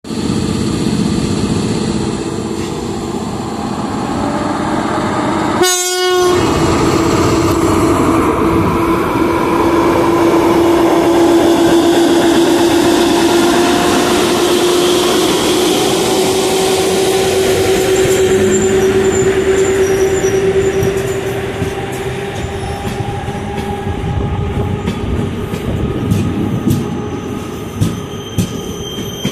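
EP08 electric locomotive pulling a passenger train away from a station: a steady whine that rises slowly in pitch for about fifteen seconds, with a brief dropout near six seconds in. After that the coaches roll past with rumbling wheel noise and scattered clicks over the rail joints.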